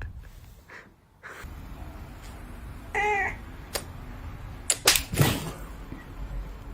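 A domestic cat gives one short meow about three seconds in, rising then falling in pitch. A few sharp clicks or knocks follow; the loudest comes about five seconds in.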